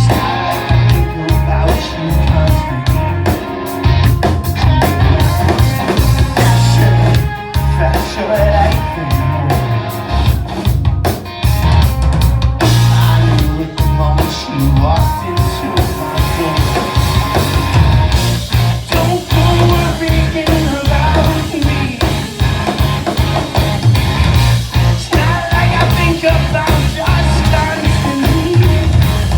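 Live rock band playing at full volume, with drum kit, bass and electric guitar.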